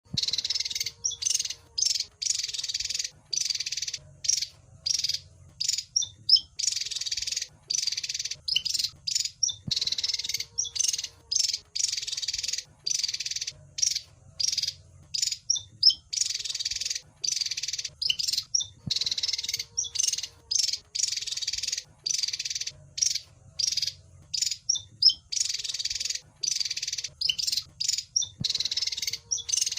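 Wergan jawa (Javan fulvetta) calling: quick bursts of high, scratchy chattering, each up to about a second long, with short gaps between. The same sequence repeats about every nine and a half seconds as a looped lure recording.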